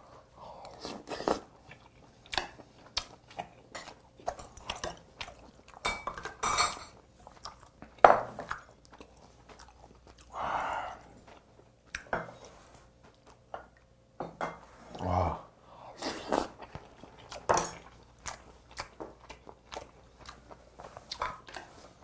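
Close-up chewing of rice in green tea with dried yellow croaker, with scattered sharp clicks of a metal spoon and chopsticks against bowls and plates.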